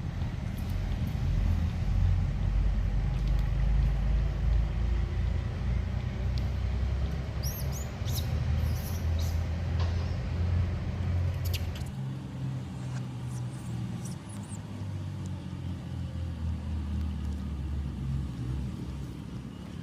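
Steady low rumbling background noise, heavier for the first twelve seconds or so and lighter after, with a few brief high-pitched chirps or squeaks in the middle.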